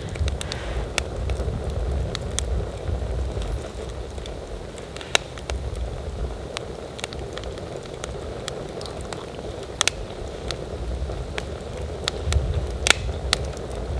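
Wood fire crackling, with irregular sharp pops, a few of them loud, over low rumbling gusts of wind on the microphone.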